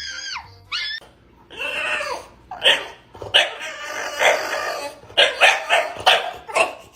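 A dog whines once, then barks and yips again and again, the barks coming quicker in the last couple of seconds.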